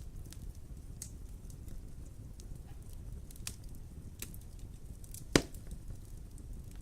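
Wood fire crackling in a fireplace: scattered small snaps over a low steady rumble, with one loud pop about five seconds in.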